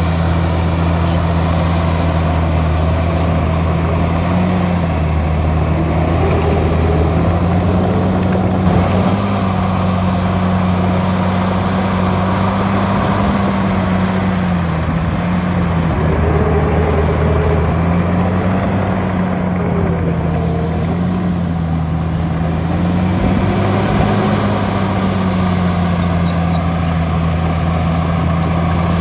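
Heavy diesel engine of earthmoving machinery running steadily under a changing load, its pitch rising and falling gently several times.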